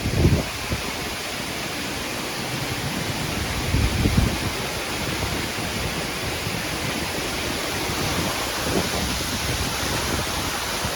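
Steady rushing of falling water, with a few low bumps near the start and again about four seconds in.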